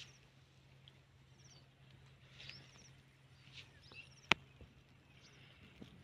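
Faint bird chirps: a few brief high calls with quick falling pitch, over a steady low hum, with one sharp click a little over four seconds in.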